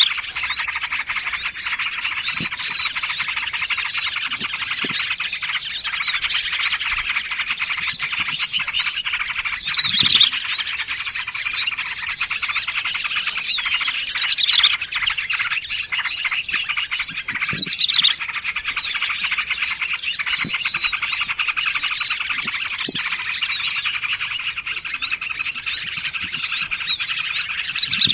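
Dense, unbroken chorus of many small forest songbirds chirping, twittering and trilling over one another, as in a bird-catchers' lure recording. Short, lower-pitched calls cut through every few seconds.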